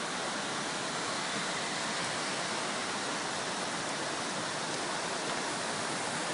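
Steady rush of fast-flowing floodwater, an even hiss with no breaks.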